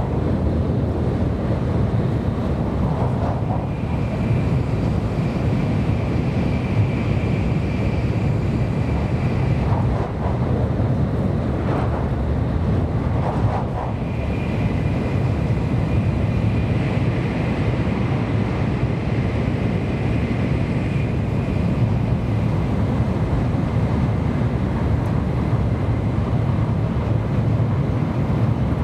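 Steady running noise inside the cabin of a Kyushu Shinkansen Sakura train, an N700 series, at speed: a low rumble with a faint high whine that comes and goes.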